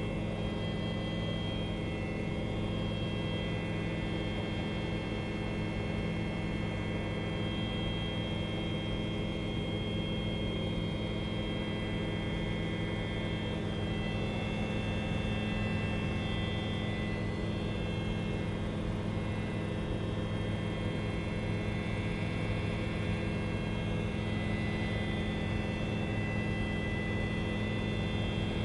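Helicopter running steadily in flight: a continuous drone made up of several steady hum tones, with no change in pitch.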